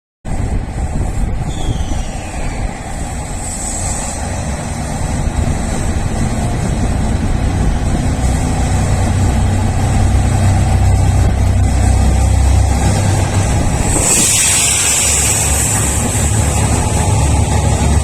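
A seven-car diesel limited express train pulling away, its engines giving a deep rumble that builds in loudness. About fourteen seconds in, a loud hiss comes in over the rumble.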